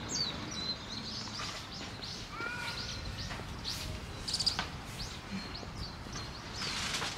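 Birds chirping and calling, with many short high chirps and a curved whistled call about two and a half seconds in, over steady outdoor background noise.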